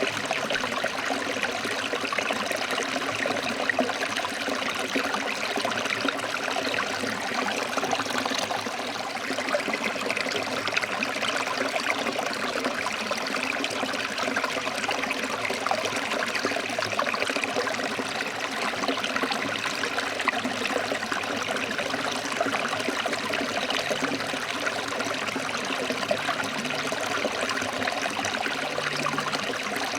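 Stream water flowing over rocks, a steady rushing with trickling.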